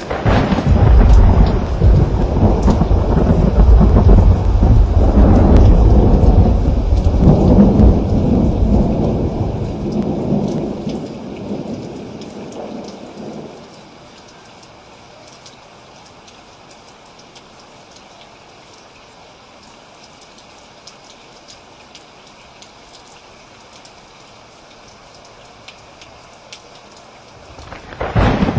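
Steady rain with a long roll of thunder that breaks out at the start and rumbles for over ten seconds before fading out, leaving only the rain. Another thunderclap begins near the end.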